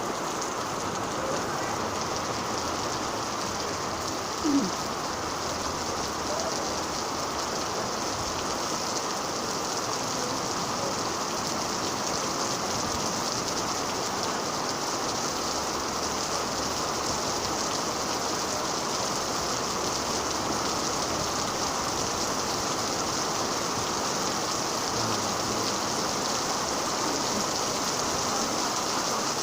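Steady rain falling and pattering on surfaces, an even unbroken hiss. A brief louder sound stands out about four and a half seconds in.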